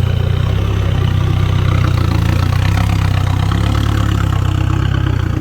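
Heavy six-wheel dump truck's diesel engine running steadily at low revs through a straight-through exhaust with no muffler, a loud, deep, pulsing exhaust note.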